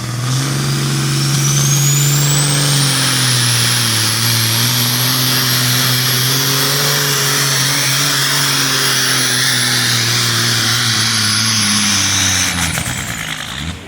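Diesel engine of a 1994 Freightliner semi truck at full throttle, pulling the sled, with a high turbo whine that climbs over the first three seconds and then holds. The engine note falls away about twelve and a half seconds in as the pull ends.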